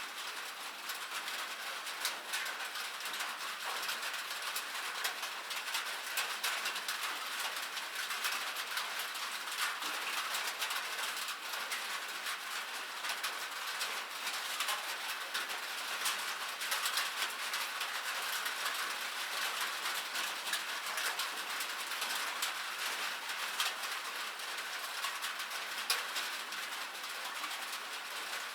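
Rain pattering on a metal surface: a dense, steady stream of small drop ticks over a light hiss, with no thunder.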